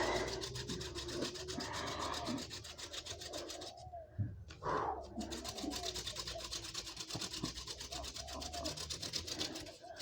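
Wooden hand-drill spindle spun between the palms, its tip grinding in the hearth-board notch with a fast, even rasping rhythm of friction fire-starting. The rasping breaks off for a moment a little before halfway, then picks up again.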